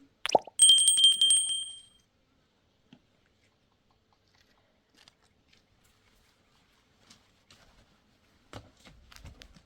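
A sudden hit followed by a bright, bell-like metallic ring with a fast rattle, fading out after about a second and a half. Faint scattered clicks follow.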